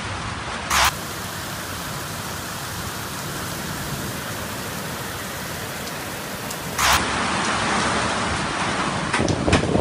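Heavy rain pouring down in a steady loud hiss. Two short, louder bursts of hiss cut in, about a second in and again about seven seconds in, and a few sharp clicks come near the end.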